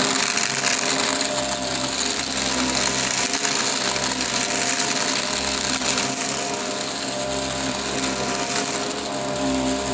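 Upright vacuum cleaner running steadily: a motor hum with steady tones under a strong hiss of rushing air, with crackling as crunchy debris is sucked up.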